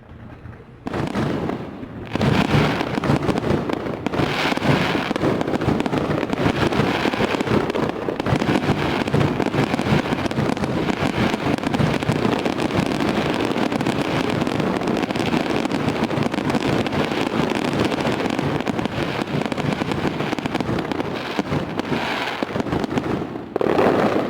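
Fireworks display in a dense, continuous barrage of rapid bangs and crackles. It builds up over the first two seconds, holds steady, and dies away after a final surge near the end.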